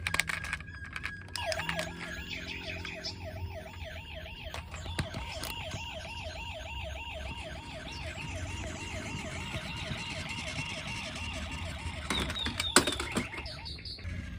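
Electronic toy police-car siren warbling fast, about three wails a second. A few sharp clicks, the loudest near the end.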